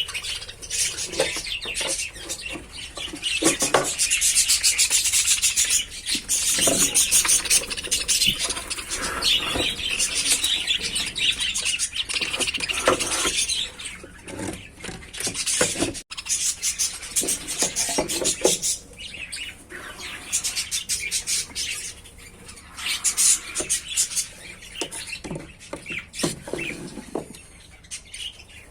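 Lovebirds chattering with rapid, high chirps, busiest and loudest in the first half, then thinning out.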